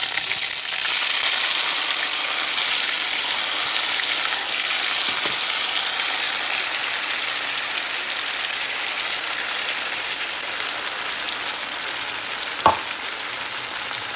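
Chopped onion and diced tomato sizzling in hot oil in a skillet: a steady, loud sizzle that eases slightly as it goes on. One sharp clink near the end.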